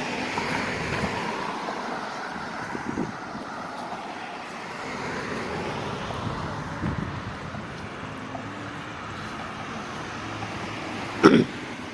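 Steady road traffic noise, with one short, sharp thump near the end.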